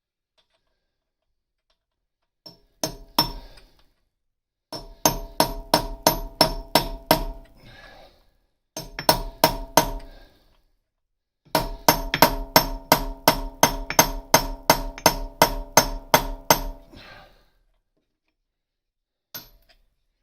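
Hammer striking a steel punch in runs of ringing metallic blows, about four a second, with short pauses between runs, driving out the remains of a snapped exhaust stud.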